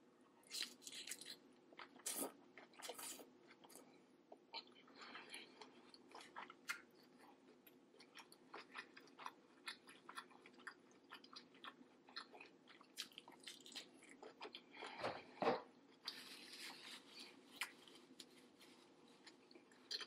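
Close-miked chewing and biting of seafood boil food: a dense run of quick mouth clicks and crunches, loudest about fifteen seconds in.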